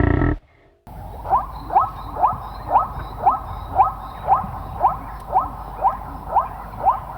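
An animal call: a short, rising chirp repeated evenly about twice a second over a steady background hiss. A brief loud sound cuts off at the very start.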